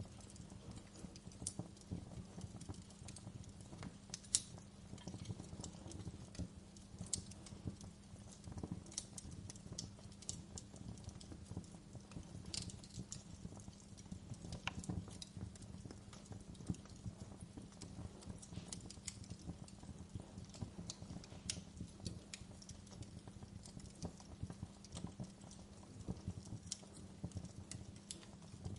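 Wood fire crackling in a fireplace: irregular sharp snaps and pops of burning logs over a low steady rumble, with one louder pop about four seconds in.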